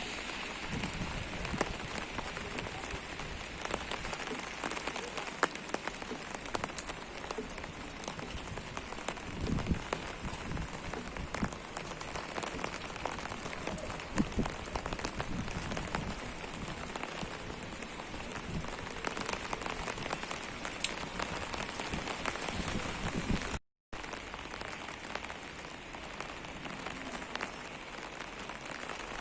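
Steady rain falling, with many individual drops ticking and pattering on hard surfaces. The sound cuts out completely for a moment about three-quarters of the way through.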